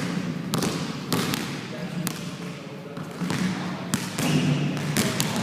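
Basketballs bouncing on a hard floor: a run of irregular thuds from more than one ball. Voices talk underneath.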